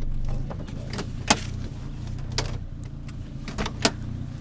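Car engine running low and steady at crawling speed, heard from inside the cabin. A few sharp clicks and knocks sound over it, the loudest about a second in.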